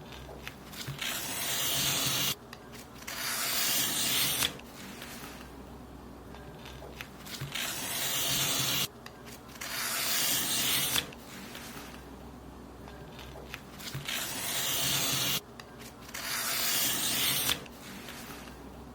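Paper being cut in long strokes: six hissing cuts of about two seconds each, coming in pairs, each swelling and then stopping abruptly.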